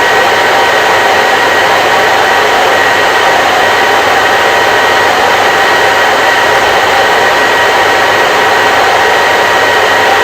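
Electric hair dryer running steadily: an even, loud rush of air with a faint steady motor whine.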